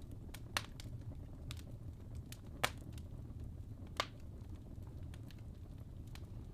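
Wood fire in a fireplace burning with a low steady rumble and irregular sharp crackles and pops from the logs, the loudest about half a second, two and a half seconds and four seconds in.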